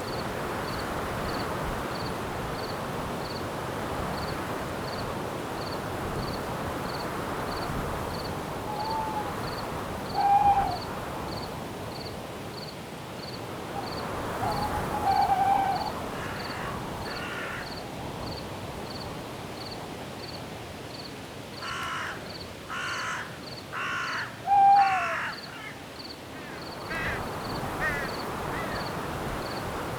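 Night forest ambience: a steady wash of wind in the trees under a cricket chirping evenly about twice a second at a high pitch. A crow caws, four harsh caws in a row about two-thirds of the way through, with a few shorter bird calls scattered earlier.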